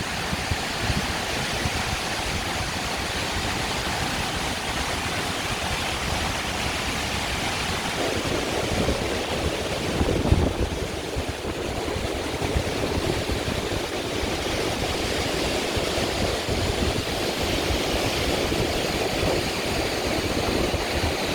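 Waterfall: steady rushing, splashing water noise, with a brief thump about halfway through.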